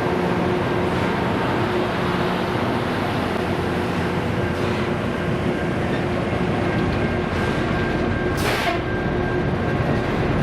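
Rail grinding train at work: a loud, steady grinding noise over a droning engine note on the track, with a brief hiss about eight and a half seconds in.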